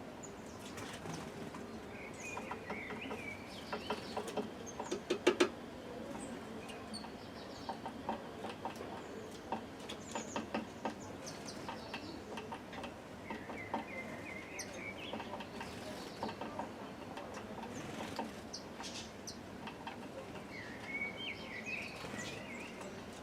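Small birds at a plastic floppy-disk-box feeder: irregular tapping and clicking, loudest in a quick cluster about five seconds in, with short chirping calls three times.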